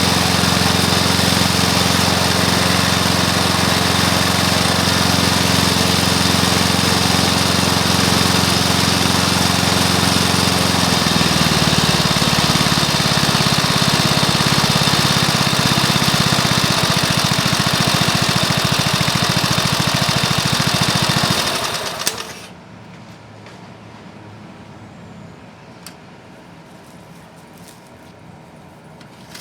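Freshly rebuilt Briggs & Stratton lawn mower engine, with new piston, rings and valves, running steadily at speed. It drops to a slower speed about eleven seconds in and shuts off about twenty-one seconds in, leaving only a few faint clicks.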